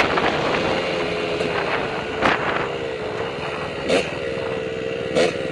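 Kawasaki KLX110 dirt bike's small single-cylinder four-stroke engine idling with a steady, slightly wavering note. Three quick throttle blips come about 2, 4 and 5 seconds in.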